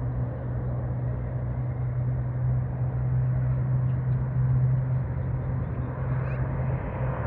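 Aircraft engines running at an airport: a steady low hum under an even wash of engine noise.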